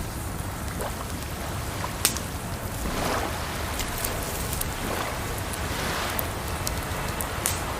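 Wood fire crackling, with a few sharp pops, over a steady wash of moving water that swells every few seconds.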